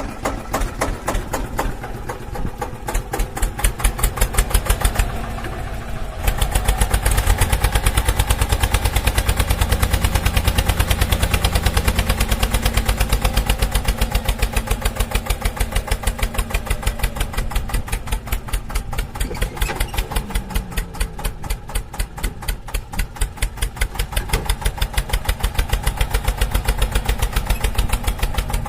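Tractor engine idling with a steady chugging beat. It swells louder and deeper for several seconds, starting about six seconds in.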